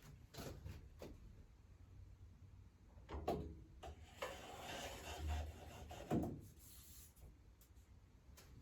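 A drawer being slid in and out, with faint knocks and a rubbing, sliding stretch in the middle.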